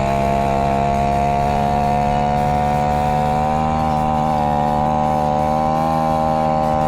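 Honda 4L Monkey's small four-stroke single-cylinder engine running steadily under load while pulling uphill, its pitch creeping up slightly partway through. Played back at double speed.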